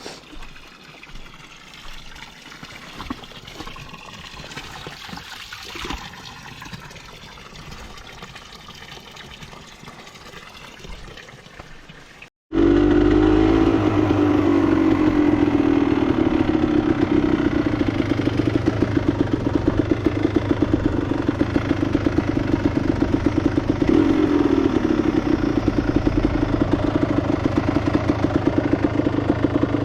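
Enduro motorcycle engine running at idle with a fast, even pulse, rising and falling in pitch twice as it is lightly revved. It comes in suddenly about halfway through, after a quieter stretch of faint, low sounds.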